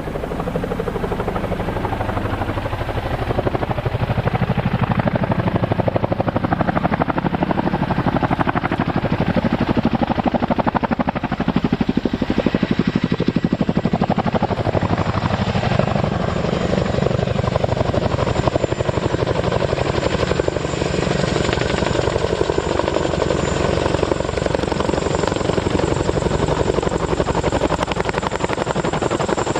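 Sikorsky H-53 heavy helicopter running, its rotor beating rapidly and steadily. It gets louder over the first few seconds, then holds, and a thin high whine joins about halfway through.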